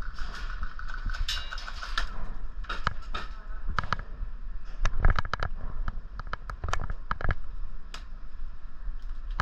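Airsoft guns firing nearby and in the distance: irregular sharp cracks and short rapid runs of shots scattered through the game.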